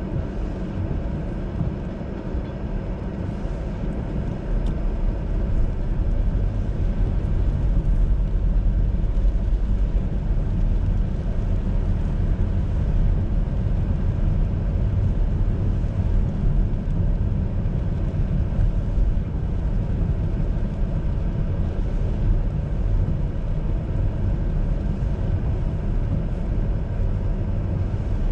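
A car driving, its engine and tyre noise forming a steady low rumble that gets louder about five seconds in, as with picking up speed.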